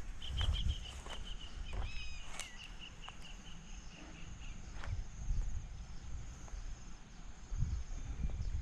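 Outdoor rural ambience: a steady high insect drone throughout, with a bird calling in a run of quick, evenly pulsed notes and a short gliding call over the first half. Footsteps on grass thud low near the start and again near the end.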